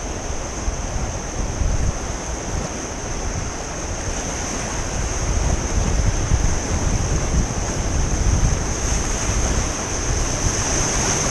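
Whitewater of a river rapid rushing steadily, with wind buffeting the microphone; it grows a little louder near the end.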